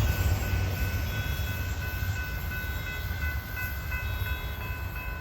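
Westbound Norfolk Southern manifest freight train rolling past with a steady low rumble that eases a little, with faint high-pitched tones ringing over it.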